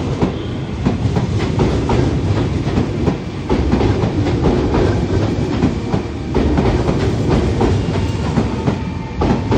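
Meitetsu 1000/1200 series Panorama Super electric train running into a station platform, its wheels clattering over rail joints in a steady run of clicks over a loud rumble.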